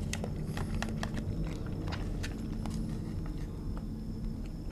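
Close-up chewing of a piece of oden konnyaku: a run of short wet mouth clicks and smacks, thicker in the first couple of seconds and sparser after, over a steady low hum.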